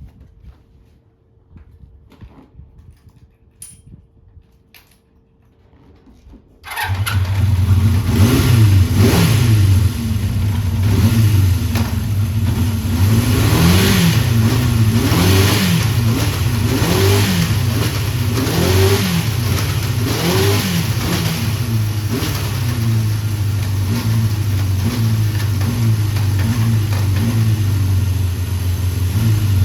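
Honda CB400F's 408cc air-cooled inline-four engine catching suddenly about a third of the way in after a few faint clicks, then revved repeatedly with quick throttle blips that rise and fall, before settling to a steadier idle.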